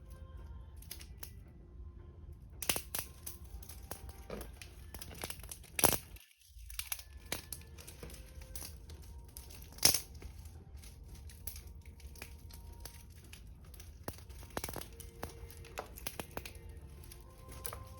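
Wood fire crackling, with irregular snaps and pops from the burning logs; the two sharpest pops come a little under 6 seconds in and about 10 seconds in.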